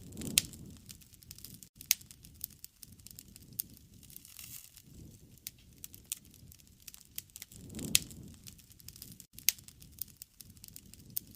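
Wood fire burning, with sharp pops and snaps of burning wood scattered throughout over the low flutter of the flames. The flame rumble swells briefly twice: at the start and about eight seconds in.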